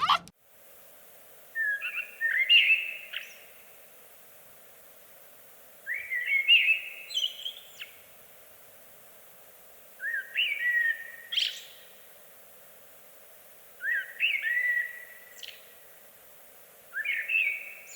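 A songbird singing five short phrases of quick, rising whistled notes, one about every four seconds, over a faint steady background hiss.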